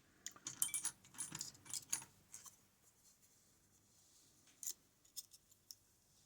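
Small metal lock parts clinking and rattling: a quick run of sharp clicks over the first two and a half seconds, then a few single clicks.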